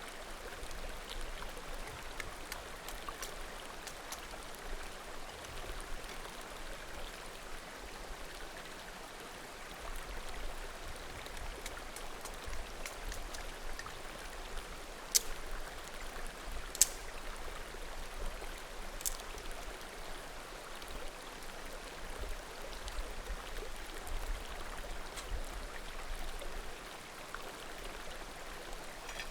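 Small mountain creek murmuring steadily, with the light crackle of a bonfire over it. About halfway through, firewood pops sharply twice, then once more a couple of seconds later.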